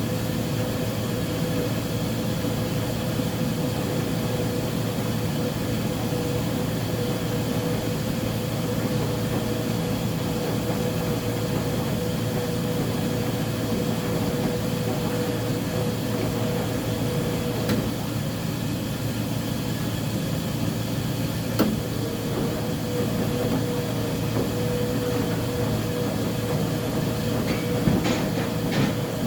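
Uni-Mac UniMat 35 commercial front-load washer running through its cycle: a steady mechanical hum with a constant whine, and a few short clicks or knocks in the second half.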